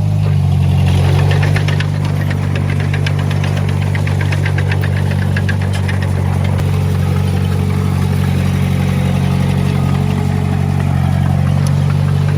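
Heavy diesel engine of earthmoving machinery running steadily. A rapid metallic clatter sounds over it from about one and a half to six seconds in.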